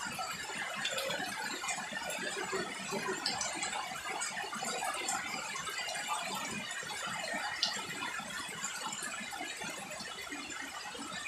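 Steady rain falling on garden foliage and wet ground, an even hiss with a few sharp drip ticks scattered through it.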